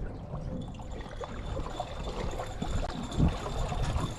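Water trickling and splashing in a fishing boat, with scattered light knocks and one louder thump about three seconds in.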